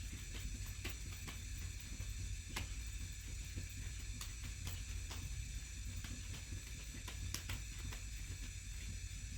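Food sizzling in a hot pan, a steady hiss with scattered small crackles and pops.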